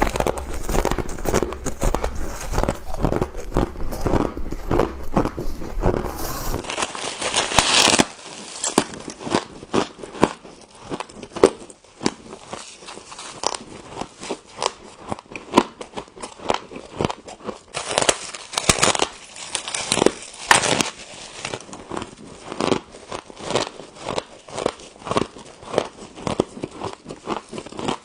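Frost being chewed: a long run of crisp crunches, several a second, with bursts of denser crunching. A low hum underneath stops about six seconds in.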